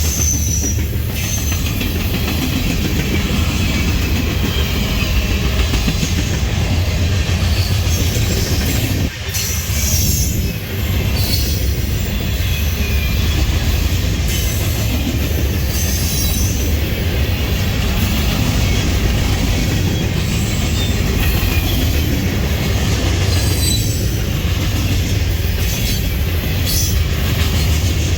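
Freight cars of a fast-moving train rolling past close by: a steady loud rumble of steel wheels on the rails, with thin high-pitched wheel squeals coming and going.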